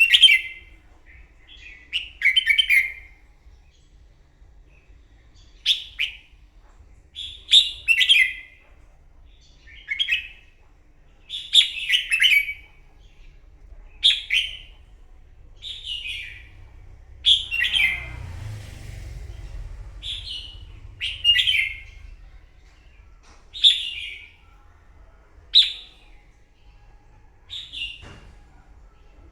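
Red-whiskered bulbul singing the fired-up 'hót đấu' fighting song: short, bright phrases repeated every couple of seconds. A low rumble rises under the song for a few seconds around the middle.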